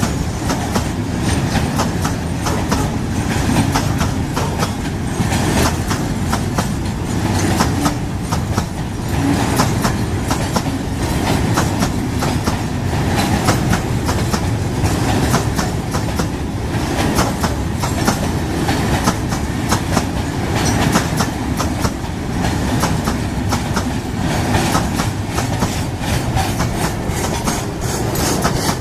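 Freight train of loaded mineral hopper wagons rolling by, its wheels clattering steadily over the rail joints with many sharp clicks.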